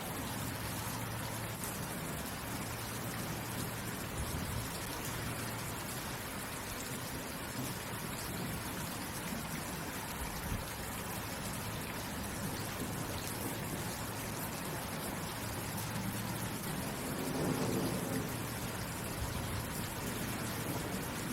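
Steady rain falling, an even hiss, with a brief low swell about three-quarters of the way through.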